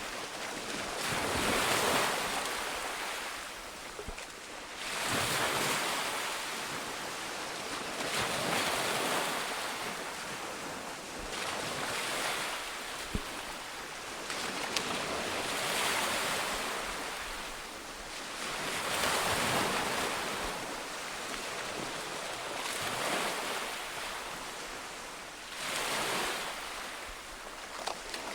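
Sea waves breaking on a shore in a steady rhythm, each wash swelling and fading about every three to four seconds.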